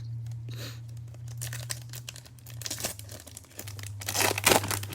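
A foil trading-card pack wrapper being torn open and crinkled in hand, with a run of rustles that is loudest about four seconds in. A steady low hum runs underneath.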